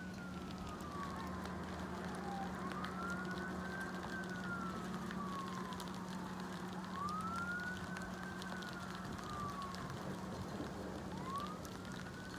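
Fire engine siren on its wail setting, rising quickly, holding and then falling slowly in pitch, about three cycles of roughly four seconds each. A steady low hum runs beneath it.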